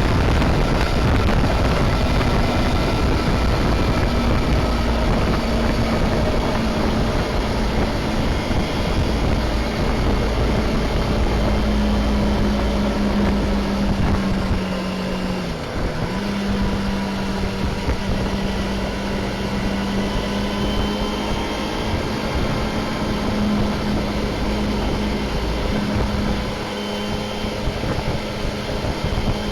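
Honda CBR250RR (MC22) 249 cc inline-four engine running under way at steady cruising revs, with a dense rush of wind and road noise beneath it. About halfway through, the engine note dips sharply for a moment and picks straight back up.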